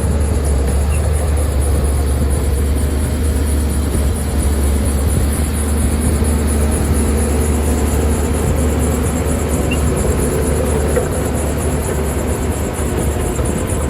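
Heavy diesel earthmoving machinery running: a steady, deep engine drone.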